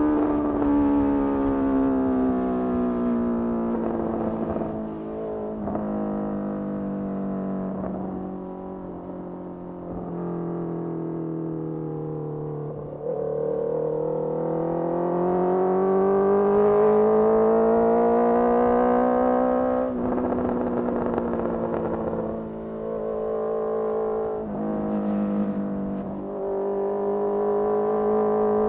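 Exhaust note of a Honda CBR650R's inline-four through a Mivv MK3 carbon slip-on, heard while riding. The pitch sinks slowly as the bike slows over the first dozen seconds, then climbs under throttle. It drops suddenly about two-thirds through and changes in shorter steps near the end.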